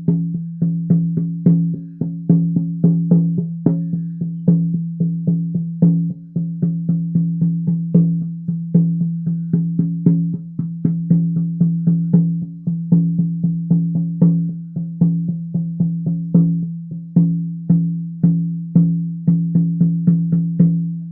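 12-inch deerskin shamanic frame drum on a willow frame, struck with a soft beater in a steady beat of about four strokes a second, each stroke a low ringing tone. The playing stops near the end.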